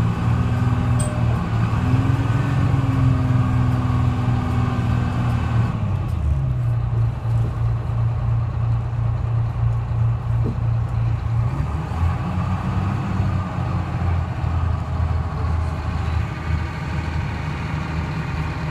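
Detroit Diesel 6V71 two-stroke diesel of a 1970-71 GMC New Look transit bus running under way. The engine note rises about two seconds in, drops near six seconds, and climbs again around twelve seconds as the bus's engine speed changes.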